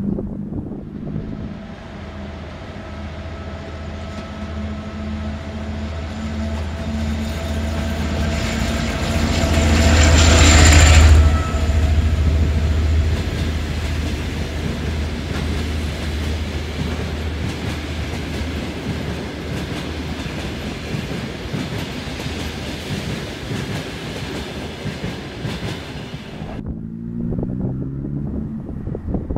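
Diesel-hauled passenger train passing close beneath, a steady rumble of engine and wheels with clatter over the rails, swelling to its loudest about ten seconds in. Near the end the TEP70BS locomotive's diesel engine is heard pulling, its pitch rising as it works up power.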